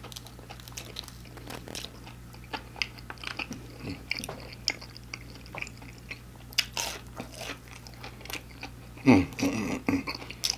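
Close-up chewing and biting of a fried hush puppy, with many small wet mouth clicks. Near the end, a short low hummed 'mm' that falls in pitch.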